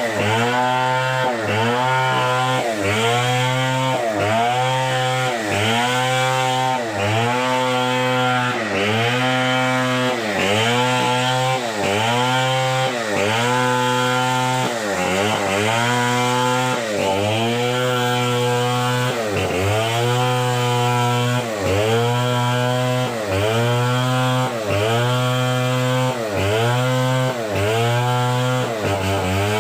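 Two-stroke chainsaw running under load while cutting wood, its engine pitch dipping and recovering in a regular rhythm about three times every four seconds.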